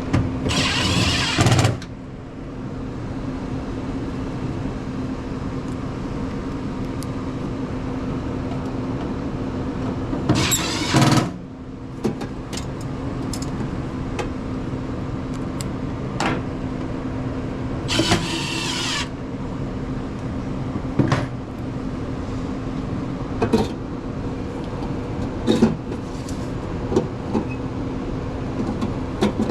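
Furnace blower running with a steady hum, its freshly replaced motor turning the right way. Three loud rushing noises of about a second each cut across it, and scattered clicks and knocks follow in the second half.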